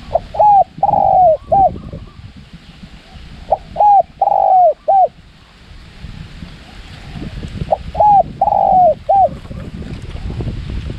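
Spotted dove cooing: three phrases about four seconds apart, each a short note, a second short note, a long falling coo and a clipped final note. Wind rumbles on the microphone underneath.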